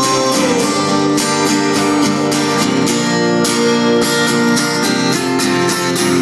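Live band playing an instrumental break of a folk-rock song, led by a strummed guitar keeping a steady rhythm under sustained chords.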